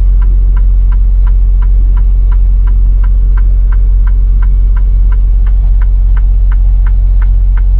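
Steady low drone of a semi-truck's diesel engine heard inside the cab, with a light, regular ticking about three times a second.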